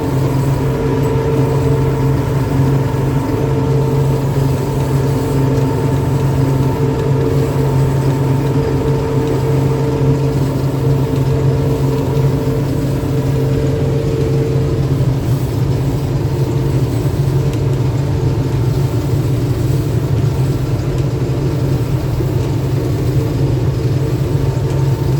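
Combine harvester running steadily while combining winter barley: a constant engine hum with steady whining tones, one of which fades out a little over halfway through.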